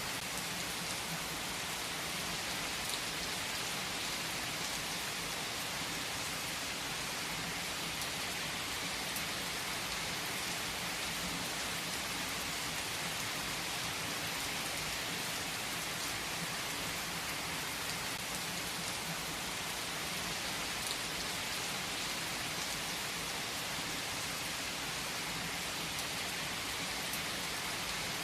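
Steady rain falling on a surface, an even hiss with occasional faint drop ticks.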